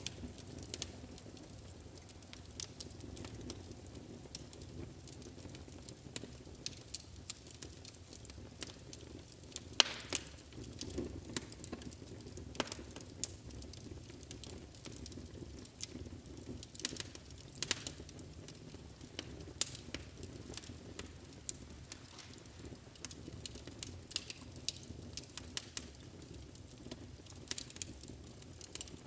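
Wood fire burning in a fireplace: a steady low rumble of flames with frequent irregular crackles and pops, the sharpest snap about ten seconds in.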